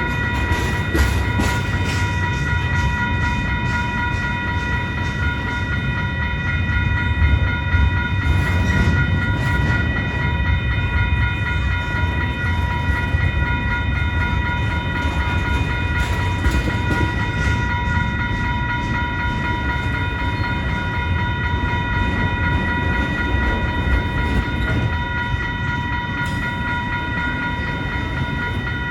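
CN mixed freight train rolling past: a steady low rumble from the cars, with bursts of wheel clicks over rail joints. Several steady high-pitched tones ring throughout.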